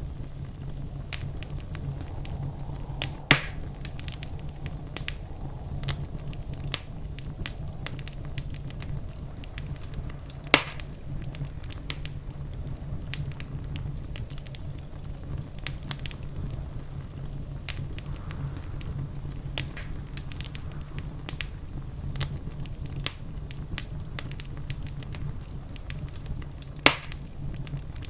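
Wood fire crackling in a fireplace: frequent small crackles over a steady low rumble, with three louder, sharper pops spread through.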